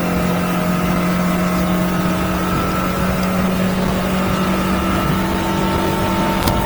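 Yamaha F150 four-stroke outboard running steadily at high throttle, around 5,800 rpm, with the boat up on plane at about 36 mph. A couple of light clicks near the end.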